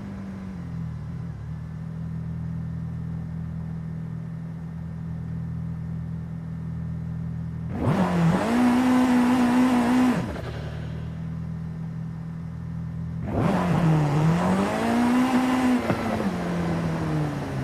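Simulated car engine sound from a driving video game: a steady low engine hum, revved up twice, about eight seconds in for two seconds and again in the last few seconds, the pitch climbing, dipping and falling back.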